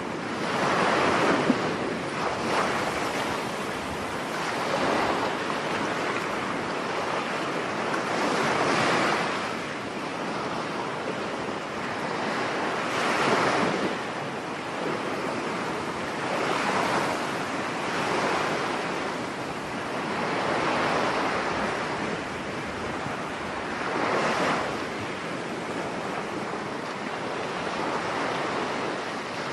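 Stormy sea surf: waves breaking on a beach, swelling and falling away every few seconds, with wind.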